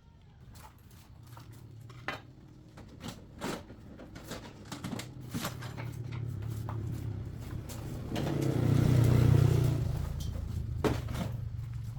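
Metal tools clinking and knocking against steel parts over a steady low engine hum that swells loudest about two-thirds of the way through.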